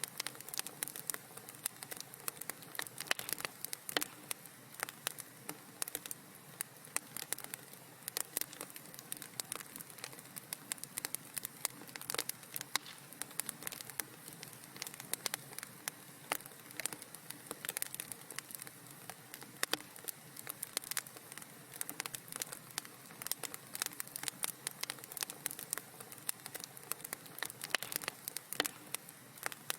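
Wood fire burning in a fireplace, crackling with many quick, irregular pops and snaps over a soft steady hiss.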